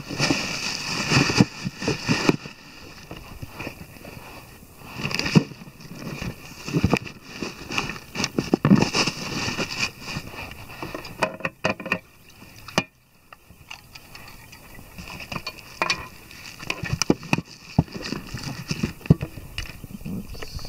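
Gear being handled and packed: rustling with irregular knocks and clicks of items being pushed into place.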